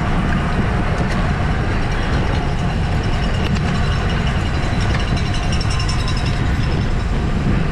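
Steady wind rush and road rumble on the microphone of a camera riding on a racing road bicycle, a low, even roar with no break.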